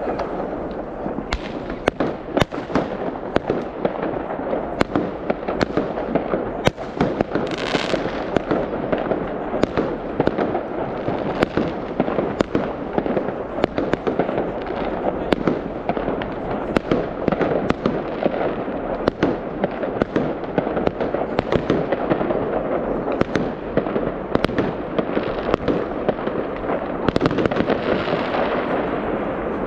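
Fireworks going off: a dense, continuous crackling and popping with frequent sharp bangs. A brief hiss about eight seconds in, and another swelling hiss near the end.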